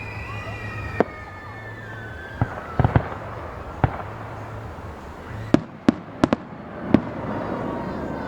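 Fireworks display: a few falling whistles at the start, then a string of about ten sharp bangs, the loudest a quick cluster of four between about five and a half and seven seconds in, with another whistle near the end.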